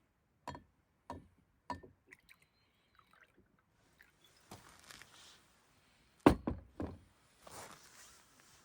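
A series of handling knocks: three light knocks about half a second apart, then a louder thunk with two smaller knocks after it about six seconds in, with soft rustling between.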